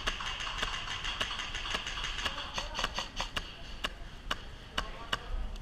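Airsoft guns firing during a game: scattered sharp cracks at irregular spacing, several a second, some in quick pairs. A steady high-pitched tone runs under the first half.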